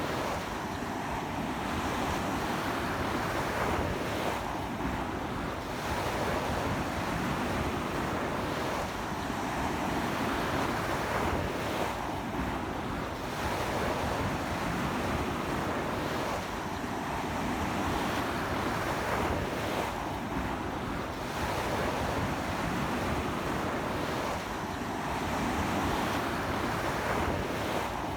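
Ocean surf washing onto the shore in strong sea wind, the wash swelling and easing about every four seconds, with wind buffeting the microphone.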